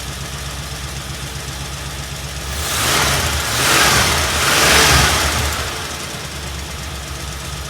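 Ford F100 pickup engine idling with a steady, pulsing rumble. It is revved in three swells from about two and a half seconds in, then drops back to idle. It is running on fuel drawn from a newly installed gas tank.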